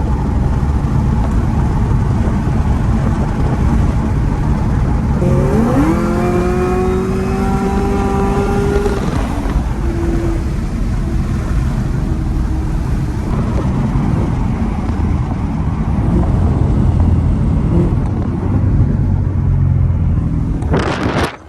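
Inside the 800 hp Camaro ZL1 1LE under hard driving: its supercharged V8 and the road make a loud, steady rumble. About five seconds in, a pitched tone rises and then holds for about three seconds before fading. A short sharp noise comes right at the end, and the sound then drops away abruptly.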